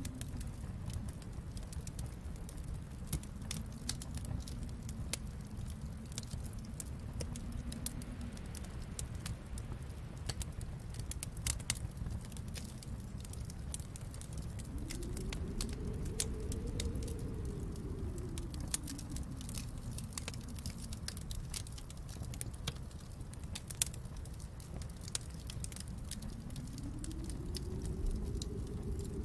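Wood fire in a fireplace crackling, with frequent sharp pops and snaps over a steady low rumble that swells up and fades twice.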